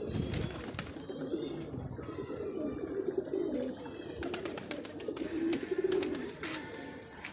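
Domestic pigeons cooing steadily in a low, wavering murmur, with a few sharp clicks about halfway through and again later.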